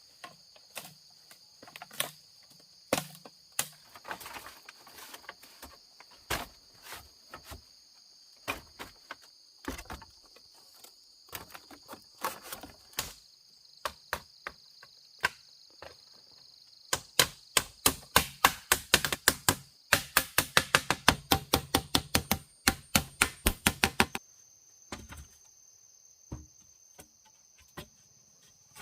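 A blade chopping into wood, with single strikes spaced out at first and then a fast even run of about four strikes a second in the latter half. Insects drone steadily in the background.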